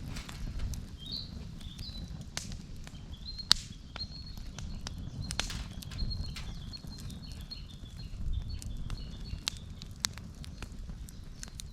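Wood campfire burning, crackling with irregular sharp pops over a low rumble. A bird chirps a quick series of high notes through most of it.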